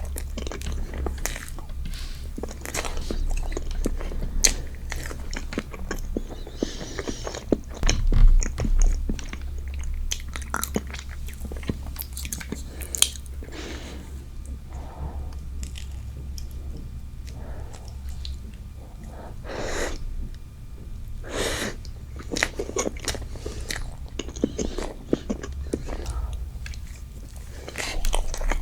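Close-miked eating of strawberry desserts: biting and chewing, with many irregular small clicks of mouth and teeth and a few louder bites.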